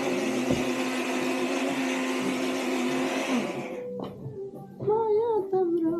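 A small electric motor appliance runs with a steady hum and rushing noise, then is switched off about three and a half seconds in, its pitch dropping as it winds down. Someone starts singing near the end.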